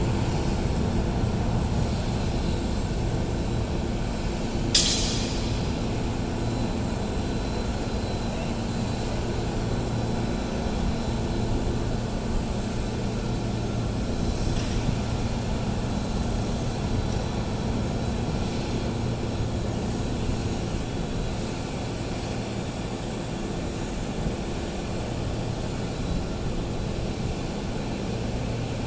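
Steady low rumble and hum of a Boeing 777-200ER under tow by a pushback tug, with one brief sharp hiss about five seconds in.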